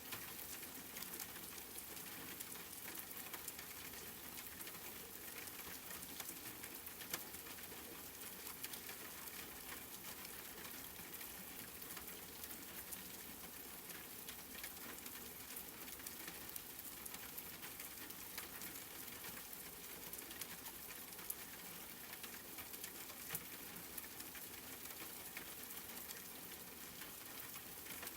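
Steady rain, a soft even hiss dotted with many sharp ticks of single drops striking a surface.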